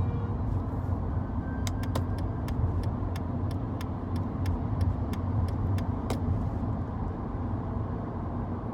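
Steady low road and engine rumble inside the cabin of a Mercedes-Benz car being driven. For a few seconds in the middle there is a run of light, even ticks, about three a second.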